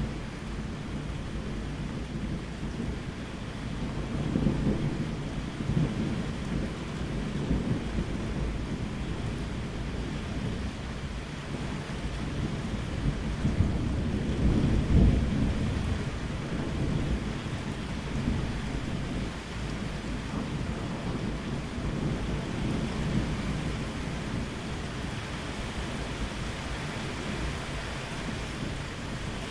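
Steady rain with rolling thunder rumbling underneath, swelling twice, about four seconds in and more strongly around a quarter of the way from the end's halfway point, near the middle.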